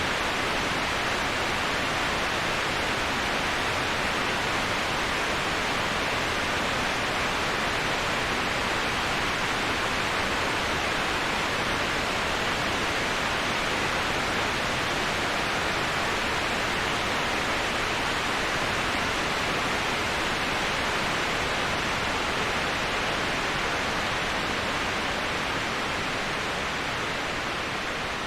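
Waterfall: a steady, even rush of falling water, a hiss strongest in the upper-middle range with no individual splashes standing out, easing slightly in level near the end.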